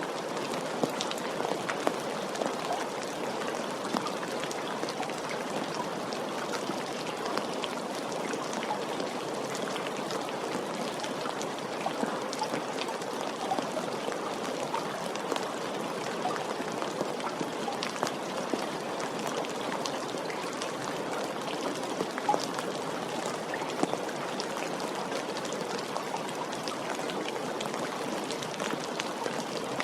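Steady rain falling, an even hiss with many small drop ticks and occasional louder drips.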